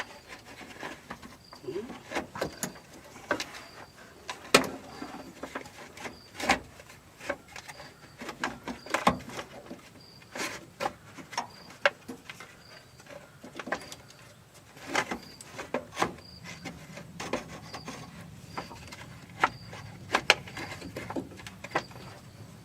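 Irregular clanks and clicks of metal parts being pushed and handled while a replacement air-conditioner fan motor is worked into place on a Subaru Sambar kei truck. A faint insect chirps at a regular pace in the background, and a low hum comes in near the end.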